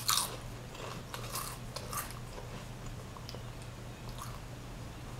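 Potato chips being bitten into and chewed, with a few crisp crunches in the first two seconds that give way to quieter chewing.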